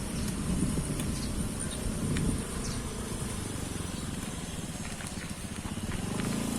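Riding noise from a bicycle climbing a hill: a steady low rumble of wind and tyres, with a fine rapid rattle.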